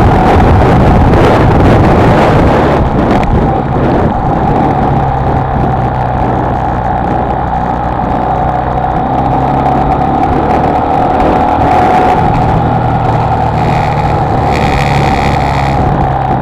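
Honda XLR125R's single-cylinder four-stroke engine running at a steady road speed, heard from on the bike, with wind noise on the microphone that eases after about three seconds. Near the end a short high tone sounds twice.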